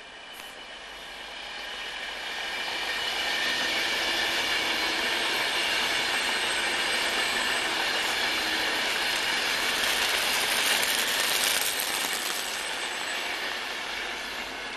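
Class 390 Pendolino electric train passing at speed: rushing wheel-on-rail noise with a steady high whine. It grows louder over the first few seconds, stays loud while the train goes by, and fades away near the end.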